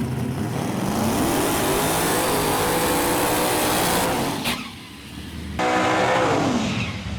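Drag race car engine at full throttle down the track, its pitch rising over the first couple of seconds and then holding. The sound drops away suddenly a little past halfway, returns loud about a second later, and falls in pitch near the end.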